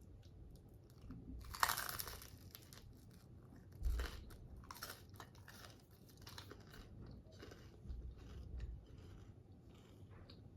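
Quiet, irregular crunching and clicking close to the microphone, loudest about a second and a half in, with a few soft thuds.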